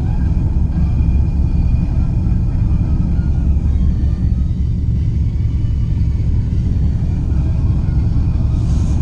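Car running along a road, heard from inside the cabin: a steady low engine and road rumble.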